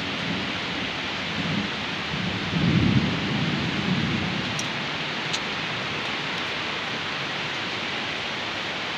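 Steady rain falling, an even hiss, with a short low rumble a little under three seconds in.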